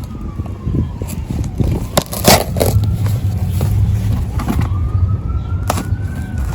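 A siren wailing slowly, its pitch falling and then rising again near the end, over a low rumble. Several sharp knocks and clacks cut in, the loudest about two seconds in.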